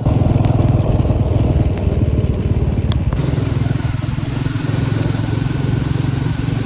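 Motorcycle engine running steadily under way, with a hiss that grows louder about three seconds in.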